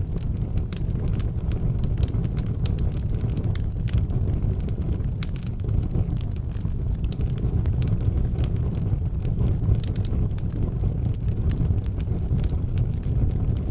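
Outdoor wood fire burning, with frequent sharp crackles and pops over a steady low rumble.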